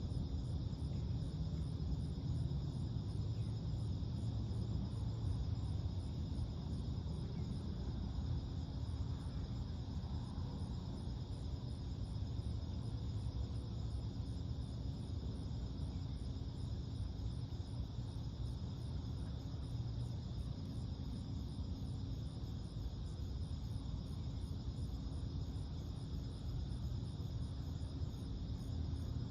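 Crickets and other insects trilling steadily, with a faster, higher pulsing call over them, above a low steady rumble.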